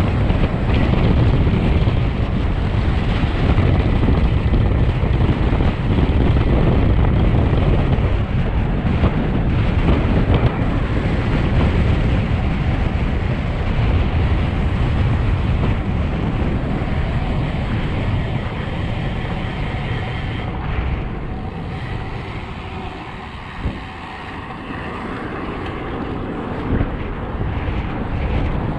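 Wind rushing over the camera microphone of a road bike descending at speed, a steady low rumble. It eases about two-thirds of the way through, with a couple of short knocks, then builds again.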